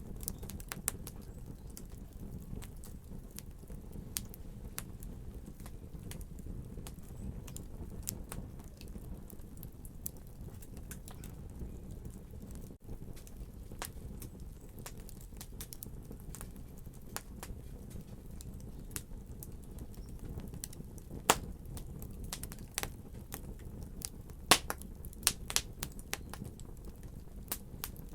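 Wood fire burning in a fireplace: a steady low rumble with irregular crackles and pops, a few loud sharp pops in the second half.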